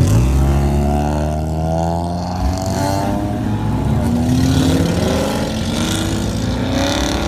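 Car engines running and accelerating as cars drive past, several engine notes overlapping and rising and falling in pitch.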